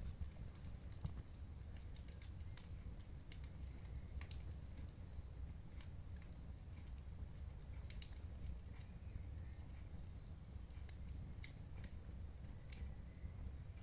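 Wood fire in a fireplace crackling: sparse, irregular sharp pops and snaps over a low steady rumble.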